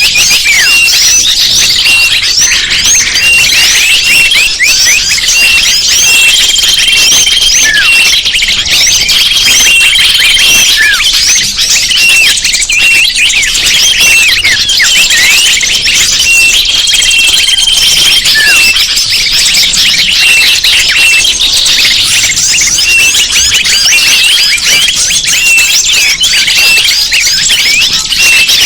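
Bird-lure recording: a dense chorus of many small birds chirping and twittering over one another, with a held high whistle that recurs every few seconds.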